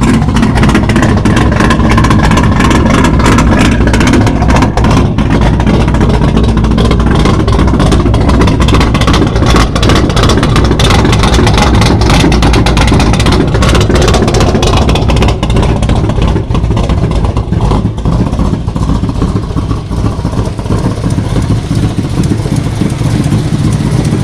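Chevrolet 350 small-block V8 with headers and a street racing cam, running loud through straight pipes with no mufflers or catalytic converters. The exhaust pulses come dense and uneven, easing slightly in level about two-thirds of the way through.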